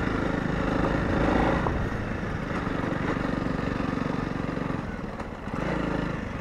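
Honda CRF250 Rally's single-cylinder four-stroke engine running as the motorcycle rides along a dirt track; the engine sound dips briefly near the end, then picks up again.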